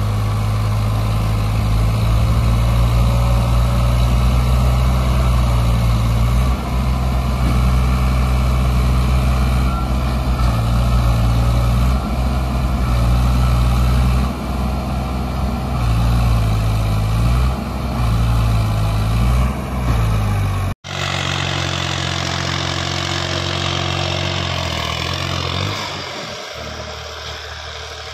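Diesel tractor engine running hard at a steady speed, its pitch sagging briefly several times. About 21 seconds in the sound cuts off abruptly and an engine is heard running quieter, dropping lower again near the end.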